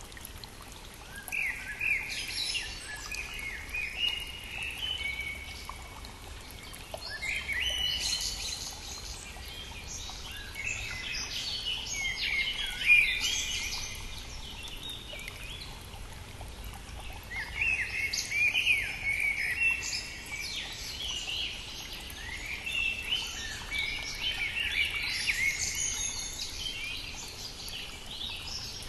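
Songbirds singing in phrases a few seconds long, with short pauses between them, over the steady rush of a small stream.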